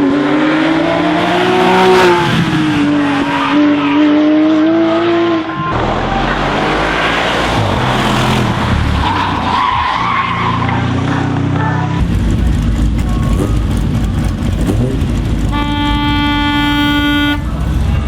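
Historic race and sports car engines revving hard and shifting as the cars climb past on a hillclimb, with some tyre squeal; the pitch of the engines rises and falls with each gear. Near the end a steady, held note sounds for about two seconds over a low rumble.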